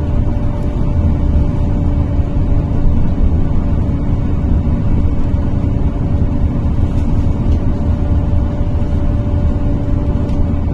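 NefAZ-5299 city bus heard from inside the cabin while driving at a steady speed between stops: a continuous low engine and road rumble with a steady whine held at one pitch.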